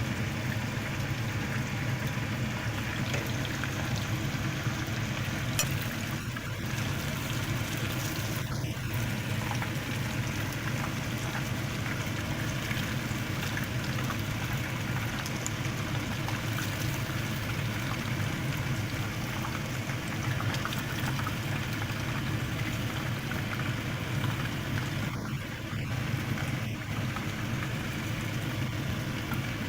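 Chicken pieces deep-frying in hot oil: a steady, dense sizzle and crackle.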